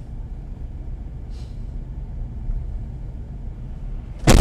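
Steady low rumble of a moving car, then a sudden loud crash near the end as a collision begins.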